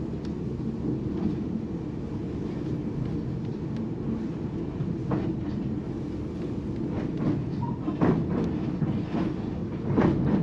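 White Pass railway passenger coach running on the track: a steady low rumble of wheels on rails, with a few sharp clacks and knocks, the loudest near the end.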